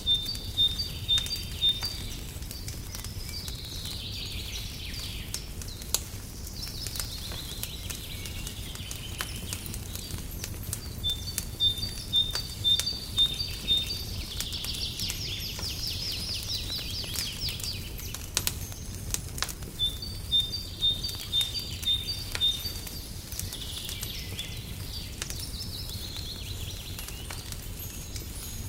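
A songbird sings the same phrase three times, about ten seconds apart: a quick run of short, high, evenly spaced notes followed by a warbled phrase. Under it a fireplace crackles with scattered sharp pops over a steady low rumble.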